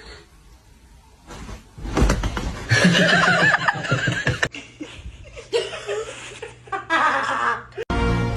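People laughing, heard in two short clips with an abrupt cut between them; a steady low hum lies under the second.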